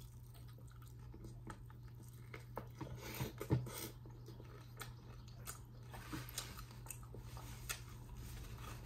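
A person chewing and biting food close to the microphone, with scattered small crunches and a louder bite about three seconds in. A steady low hum runs underneath.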